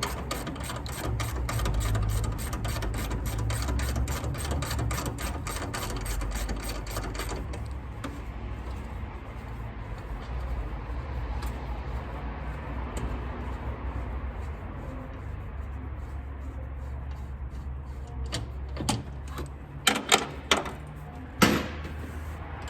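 A ratchet wrench clicking rapidly and evenly, about five clicks a second, as engine fasteners are worked; the clicking stops about seven seconds in. A low steady hum runs underneath, and a few sharp metallic knocks come near the end.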